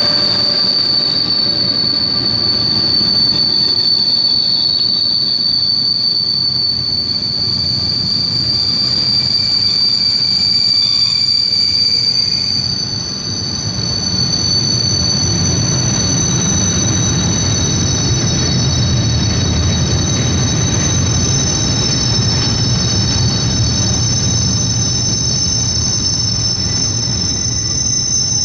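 Freight train of high-sided open wagons rolling past: a steady rumble of wheels on rail with a drawn-out high wheel squeal, which fades about halfway through and returns at a higher pitch.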